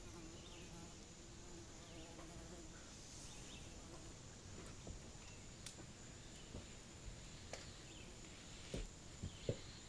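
Quiet outdoor ambience with a steady high-pitched insect drone. A faint held sung or hummed note trails off in the first couple of seconds, and a few soft knocks come near the end.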